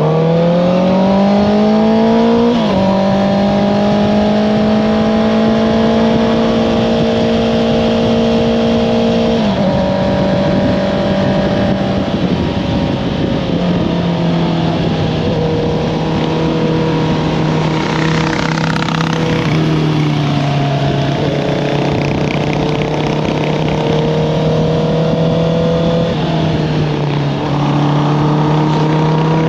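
Honda CBR650R inline-four running through an Akrapovič exhaust under way, over the rush of wind. It comes off hard acceleration, drops in pitch about two and a half seconds in, then holds steady engine notes that step down a few times, and pulls up again near the end.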